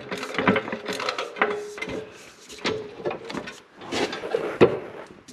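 Clattering knocks and scraping as a 3/16-inch bent steel skid plate is handled and offered up under a tractor for a test fit, with a sharp knock near the end.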